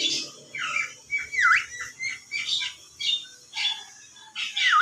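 Javan myna calling: a string of short notes, some whistled swoops that fall steeply and rise again, others rougher and squawky, each followed by a brief gap.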